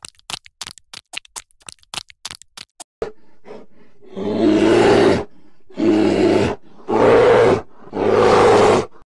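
Rapid clicking, about four clicks a second, for the first three seconds. Then an Asiatic black bear growls four times, loud calls each about a second long.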